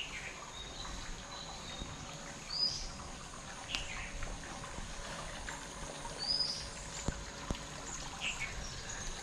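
Birds calling over a steady background hiss: a short high chirp about two and a half seconds in and again about four seconds later, with a couple of lower falling notes between them.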